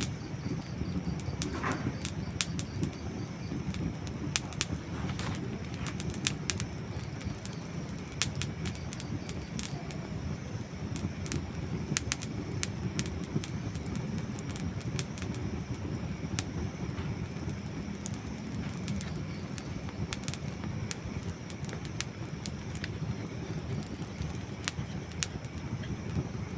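Burning dry wood crackling and popping: frequent sharp, irregular snaps over a steady low rush of the flames.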